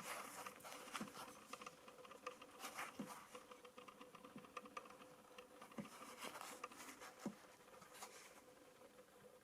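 Faint, irregular light clicks and scratchy taps of small handling noise, over a faint steady hum.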